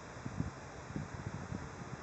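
Wind buffeting the microphone in irregular low thumps over a steady hiss.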